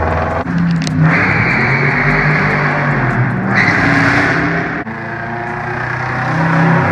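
Subaru WRX's turbocharged flat-four engine accelerating hard, loud throughout. There is a sudden dip about five seconds in, and then it pulls and builds again.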